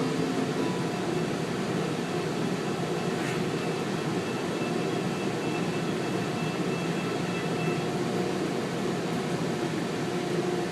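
Steady running noise of a tram in motion, heard from inside the car, with a faint high tone that fades out about eight seconds in.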